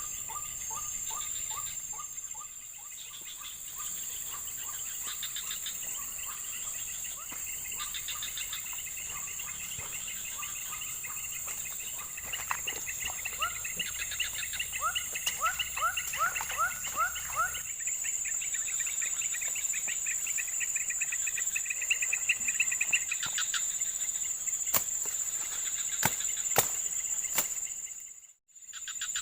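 Tropical nature ambience: insects hold a steady high-pitched drone, overlaid by repeated quick runs of chirping calls. A few sharp clicks come near the end.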